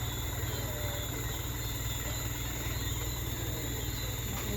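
Large truck's engine idling with a steady low rumble. Insects trill steadily in the background.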